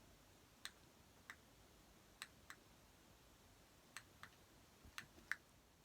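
Near silence broken by about eight faint, short clicks at uneven intervals.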